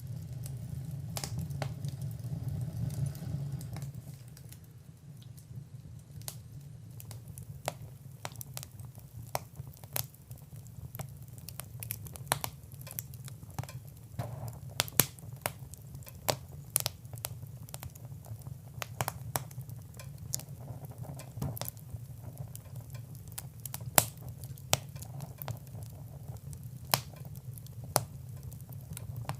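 Wood fire in a fireplace crackling: irregular sharp pops and snaps, a few of them louder, over a low steady rumble that is stronger for the first few seconds.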